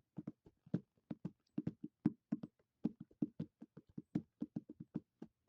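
Hands tapping a surface with alternating left and right strokes, several knocks a second in an uneven, drumming rhythm.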